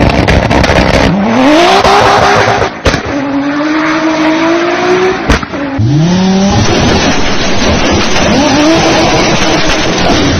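Audi car engines revving and accelerating hard, the engine note climbing in pitch again and again over a loud rushing noise. The sound breaks off abruptly twice as one car gives way to another.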